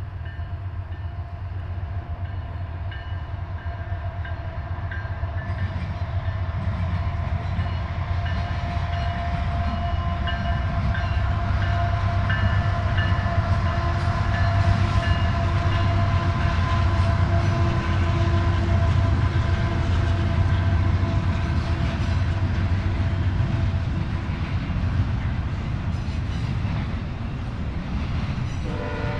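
A train rolling past, a steady low rumble with a few held high-pitched tones over it. It swells to its loudest around the middle and eases off toward the end.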